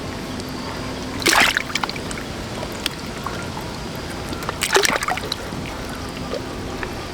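Water splashing twice, once about a second in and again near the five-second mark, the second splash the louder, over a steady background hiss.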